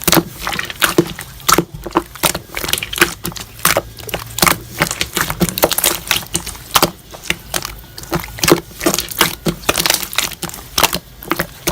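Slime being squeezed and pressed by hand, with many quick crackling pops of trapped air, several a second in an uneven rhythm.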